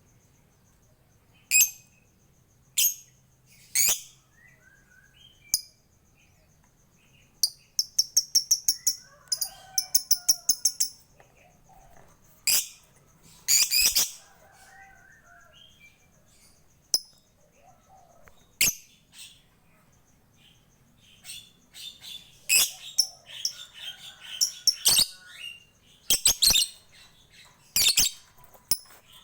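Lovebird calling: sharp, high, shrill chirps in irregular bursts, with a run of rapid ticking notes, about six a second, a quarter of the way in, the 'ngetik' typing-like chatter that bird keepers prize.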